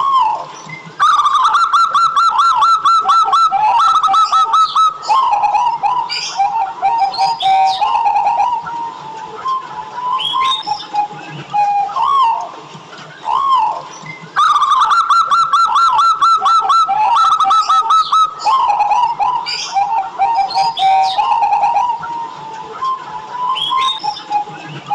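Zebra dove (perkutut) cooing: a fast run of short rising notes followed by lower, slower coos. The phrase starts about a second in and again about 14 seconds in.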